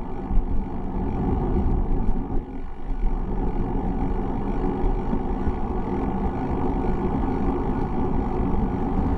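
Steady low rumble of bicycle riding: road and wind noise on a bike-mounted microphone.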